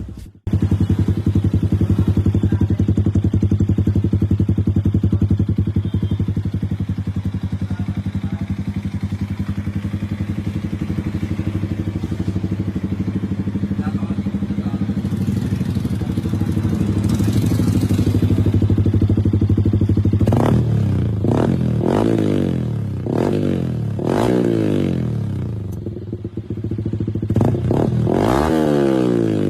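Yamaha R15 V3's single-cylinder four-stroke engine running through its exhaust: a steady idle for most of the time, then a series of quick throttle blips in the last third, each rev rising and falling sharply.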